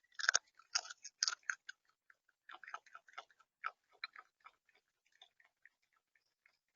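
A bird pecking and cracking seed on the feeder right next to the camera's microphone: a run of quick, irregular clicks and taps, densest in the first two seconds, then sparser.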